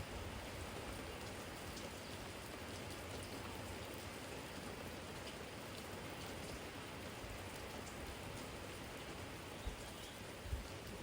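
Steady spring rain, with scattered drops tapping on a garden jar. Two short low thuds near the end.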